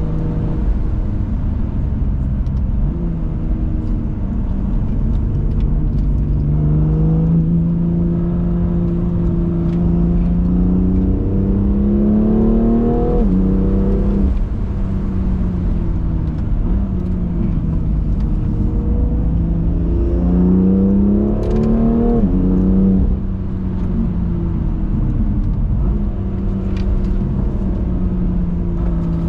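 BMW M2 Competition's twin-turbo straight-six engine under hard acceleration. Its pitch climbs in two long pulls, around 11–13 seconds and 19–22 seconds, and drops abruptly at the end of each.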